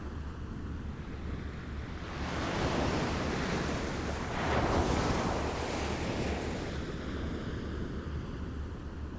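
Small waves lapping against a shore: a gentle wash of water that swells about two seconds in, peaks near the middle and ebbs away, over a low steady rumble.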